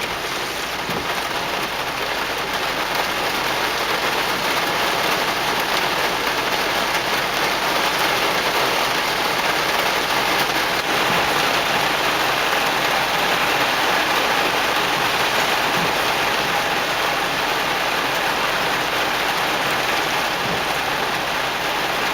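Heavy rain pouring down steadily, a dense hiss that grows a little louder over the first few seconds and then holds.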